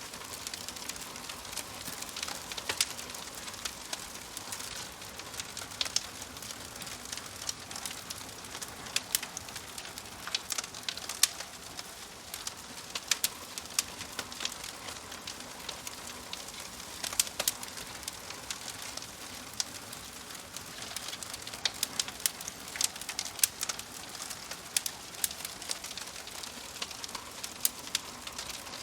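Fire crackling: irregular sharp pops and snaps over a steady soft hiss.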